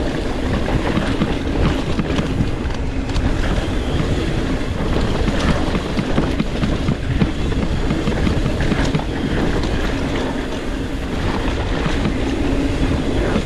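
Mountain bike rolling fast over rough trail: a steady rumble of tyres on dirt with constant rattling and clattering clicks from the bike.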